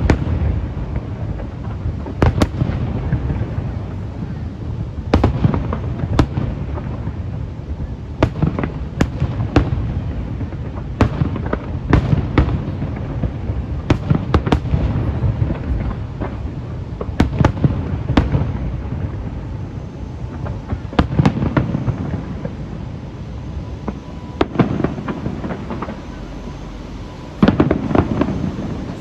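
Aerial fireworks display: shells bursting in a fast, irregular run of sharp bangs over a continuous low rumble. A denser, louder volley comes near the end.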